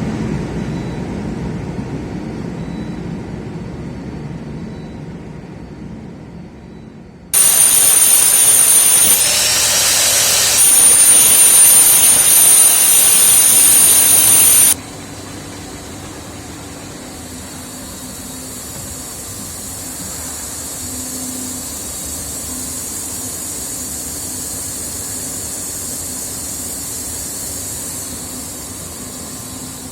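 Lead rotary furnace with its oxy-gas burner running: a steady industrial rumble and rush. About seven seconds in, a much louder rushing noise with a high whistle starts suddenly, lasts about seven seconds and cuts off, leaving a quieter steady rumble.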